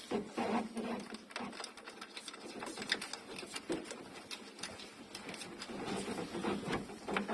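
Irregular light clicks and taps, several a second, from sunroof parts and hand tools being handled during a car sunroof repair.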